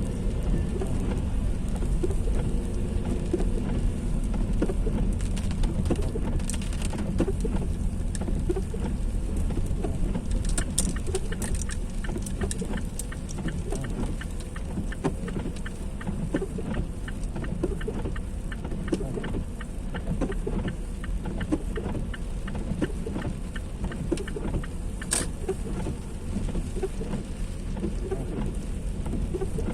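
Heavy rain falling, with many small drop impacts over a steady low rumble.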